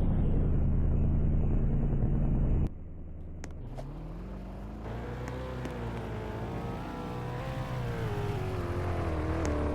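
A motor vehicle's engine running, its pitch falling and then climbing again as the revs change. The sound cuts suddenly to a quieter stretch a bit under three seconds in.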